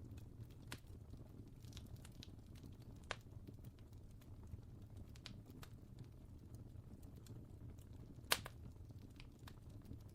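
Faint fire crackling: irregular small pops over a low steady rumble, with a sharper pop about three seconds in and the loudest pop near the end.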